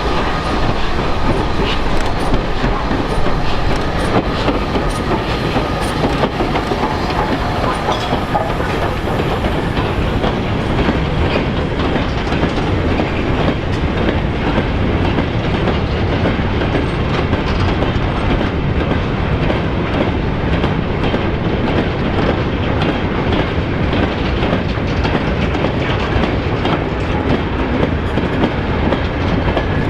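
A train running along the rails, its wheels clattering steadily with a continual clickety-clack.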